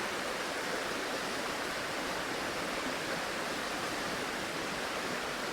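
A flowing river rushing steadily, an even wash of water noise with no breaks.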